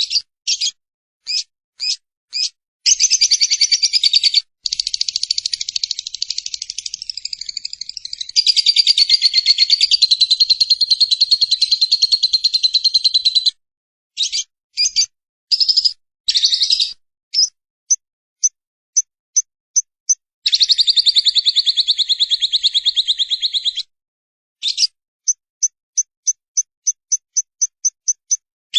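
Lovebird chattering ('ngekek'): two long, rapid, high trills of about ten and three seconds, broken up by short chirps and evenly spaced runs of quick notes.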